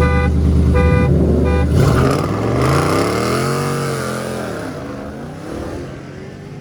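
Car horn honks three short times over a heavy, low engine rumble, then a car engine revs hard as the car pulls away, its pitch rising and then falling as the sound fades off.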